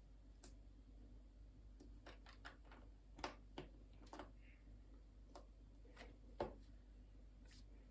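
Faint, scattered clicks and taps of small plastic Lego pieces being handled and pressed together, about a dozen at irregular intervals, with a cluster of quick ones about two seconds in.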